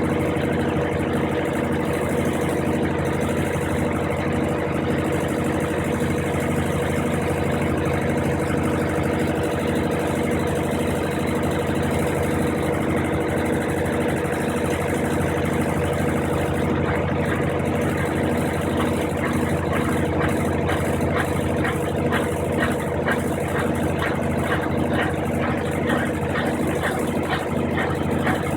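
Brastemp 15 kg washing machine running: a steady motor hum with a regular pulse in it. About two-thirds through, a fast, fine rattling pattern joins the hum.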